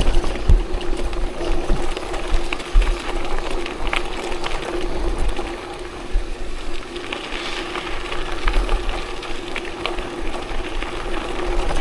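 Continuous riding noise on a gravel forest road: rattling and ticking over the rough surface with a steady hum, and wind buffeting the microphone in low thumps.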